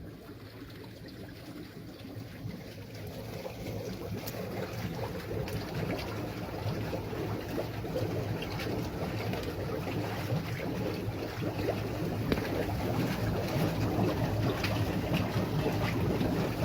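Water from a mineral spring running and splashing, with many small drips and splashes, growing steadily louder.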